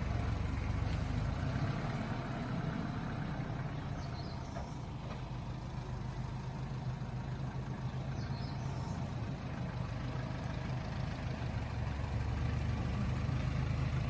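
Truck engine running at low revs while manoeuvring, a steady low hum that eases off a little in the middle and picks up again near the end.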